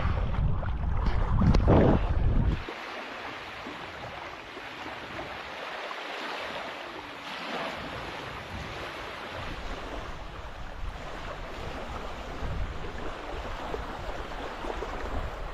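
Wind buffeting the microphone for the first couple of seconds, then a steady wash of water and small waves in the shallows.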